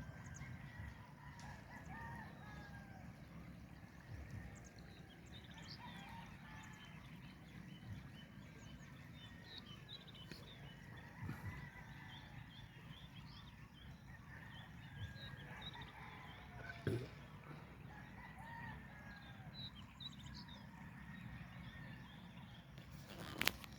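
Faint birds calling, many short scattered chirps over a low steady rumble, with two sharp knocks, the louder one near the end.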